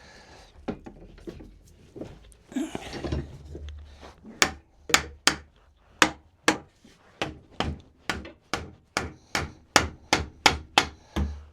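Hammer blows on a dry-fitted wooden frame, knocking its joints apart. A few scattered knocks come first, then a steady run of sharp strikes about three a second from about four seconds in.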